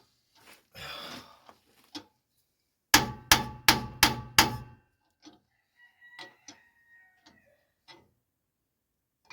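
Hammer blows driving a new axle bearing into the axle tube of a Dodge 9.25 rear differential: five quick, ringing metal strikes about three seconds in, roughly three a second, the bearing going in easily. A few faint clicks follow.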